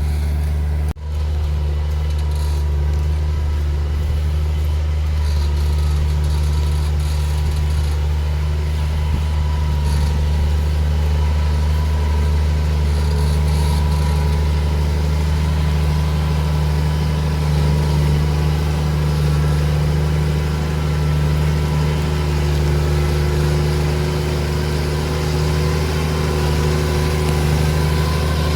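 New Holland T7040 tractor's diesel engine running steadily under load as it pulls a ripper through the soil, with a brief dropout in the sound about a second in.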